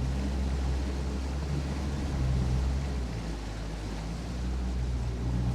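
Outboard boat motor running steadily at low speed, its low note dipping for about a second a little past the middle.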